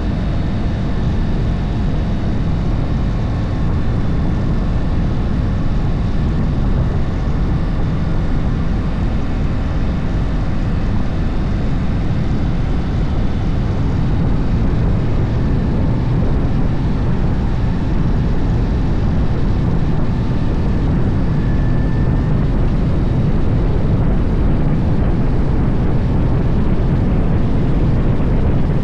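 Harley-Davidson motorcycle running steadily on the road, its engine partly buried under a heavy, steady rumble of wind on the microphone.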